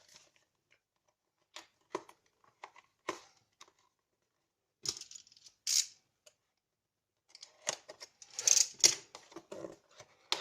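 Headphone box and its packaging being opened and handled: scattered clicks and taps, then short bursts of rustling and crinkling about five seconds in, growing denser near the end.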